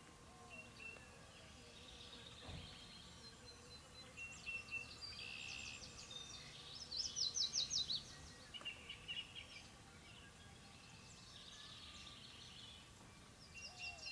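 Faint birdsong over quiet outdoor background: scattered chirps and short calls, with a fast trill of evenly spaced notes a little past the middle.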